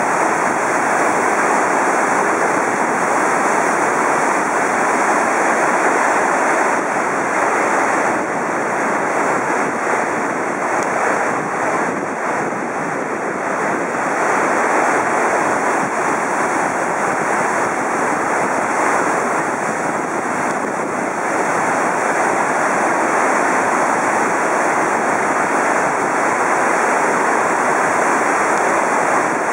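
Steady loud rush of floodwater pouring through the sluice gates at the head of the Edo River, the river running high after a typhoon.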